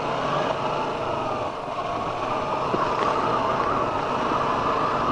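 Sport motorcycle's engine running steadily while being ridden, heard from the rider's own bike, a continuous drone that wavers slightly in pitch.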